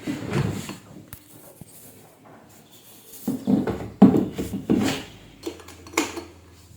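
Several knocks and clatters of hard objects being handled and set down, in uneven bursts, the loudest cluster a few seconds in.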